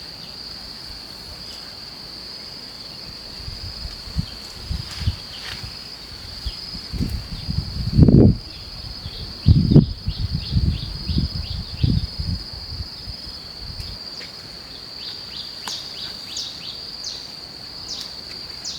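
Insects trilling, a steady high-pitched buzz that never stops. In the middle come a series of low thuds and rumbles, the two loudest about eight and ten seconds in.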